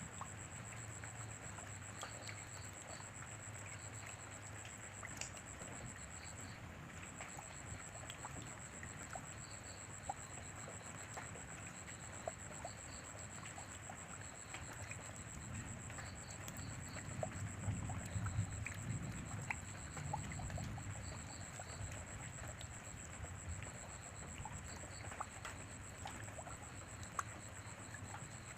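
Rain falling steadily, with scattered individual drips and a continuous high-pitched tone above it. A low rumble swells briefly a little past the middle.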